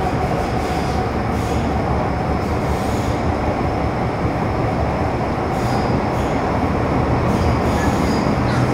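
MTR Metro Cammell M-Train (CT-stock) electric multiple unit with GEC GTO chopper traction, underway between stations and heard from inside the car: a loud, steady rumble of wheels and running gear with a steady mid-pitched tone over it. Faint high squeaks come now and then.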